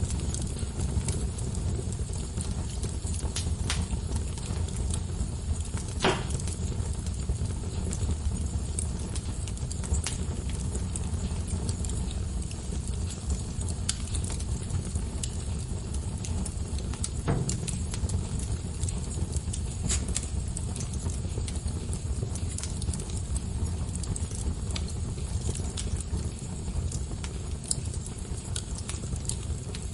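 Wood fire burning in a fireplace: a steady low rumble of flames with constant light crackling and scattered sharp pops, a louder pop about six seconds in and others later.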